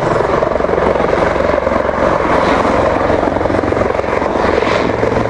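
Military helicopter rotors and turbine engines running overhead: a loud, steady noise with a continuous low hum beneath it.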